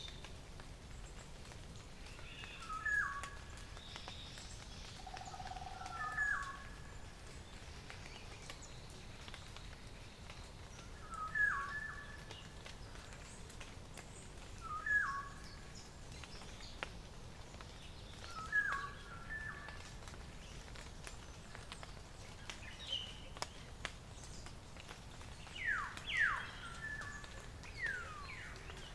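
Woodland birds calling at dawn: one bird repeats a short two-note call every three to four seconds, with fainter calls behind it and two quick falling whistles near the end. A steady low background hum runs underneath.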